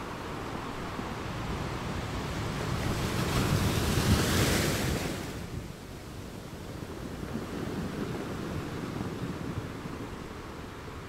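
Surf breaking and washing up onto a sandy beach. The noise of the wave swells to its loudest about four seconds in, then falls back to a softer wash.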